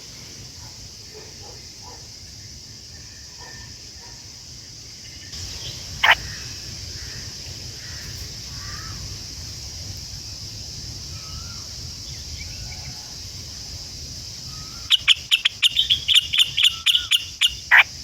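A bird calling: one loud, sharp call about six seconds in, then a rapid run of sharp calls, several a second, near the end. A steady high insect drone runs underneath.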